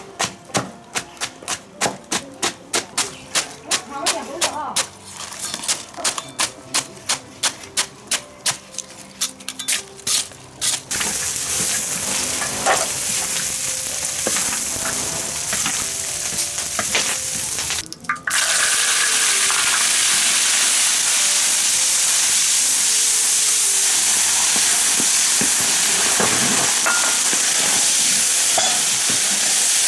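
A cleaver chopping greens on a board, quick even strokes about three a second, for roughly the first eleven seconds. Then duck pieces sizzle as they fry and are stirred in a large wok, the sizzle louder and steady from about eighteen seconds in.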